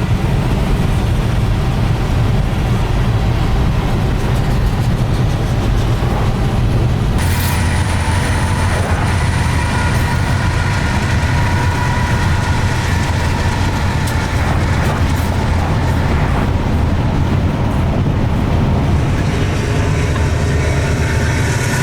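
Diesel-hauled freight train running, a loud steady rumble that changes character about seven seconds in.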